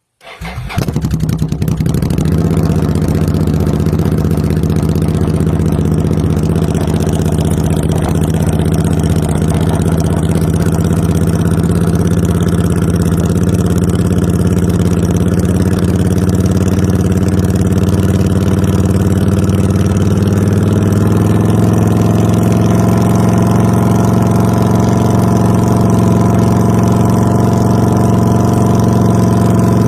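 Suzuki motorcycle engine with a straight-pipe exhaust starting up and settling within about a second into a loud, steady idle.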